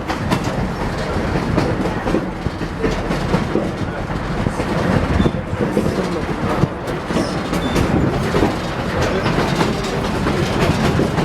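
Durango and Silverton narrow-gauge train running along the track, heard from on board: a steady rumble with the clickety-clack of wheels over rail joints.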